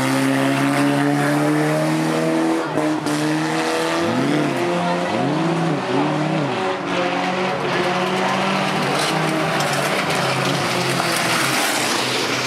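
Banger racing car engine running hard while towing a caravan, its revs rising and falling about three times in quick succession a few seconds in, over a steady haze of tyre and track noise.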